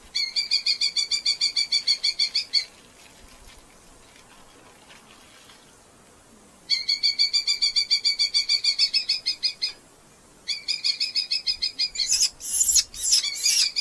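Red-footed falcon giving rapid series of shrill, evenly repeated calls, about eight notes a second, in three bouts with short pauses between. The last bout turns louder and harsher near the end.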